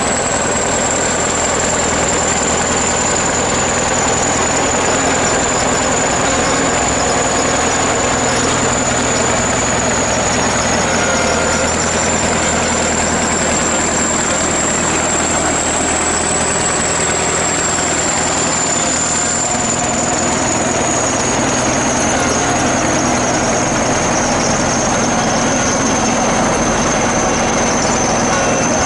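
ChTZ T-170 bulldozer's diesel engine running steadily, with a thin high whine above it that slowly drifts lower near the end.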